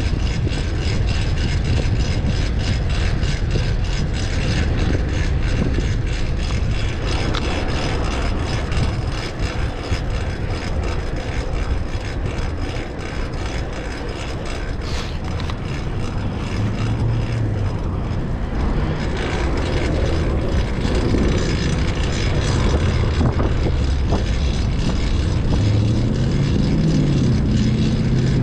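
Wind rushing over the microphone and road noise from a fixed-gear bicycle being ridden, with the drivetrain loud because the chain runs on a new rear cog.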